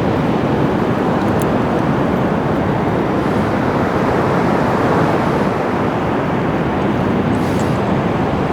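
Steady rushing noise of wind and surf on a beach, even and unbroken throughout.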